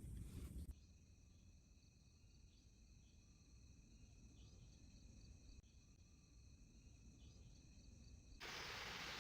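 Faint, steady insect chorus, like crickets, holding several high tones with small chirps. A loud, even hiss cuts in suddenly near the end.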